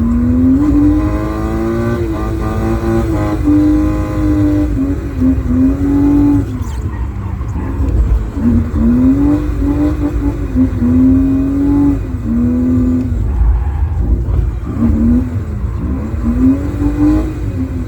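BMW E36's M52TU 2.8-litre straight-six, fitted with an M50 intake manifold, revving up and dropping back again and again with loud induction noise, over a low road rumble.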